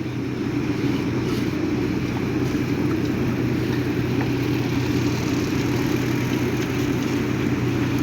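A motor vehicle's engine running at a steady speed, a continuous even drone.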